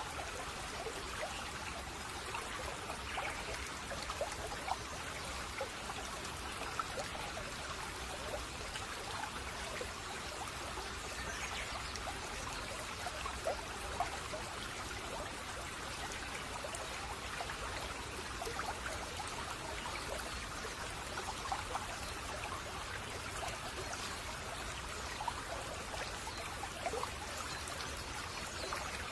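A babbling brook: water trickling and splashing steadily over stones, with many small bubbling plinks.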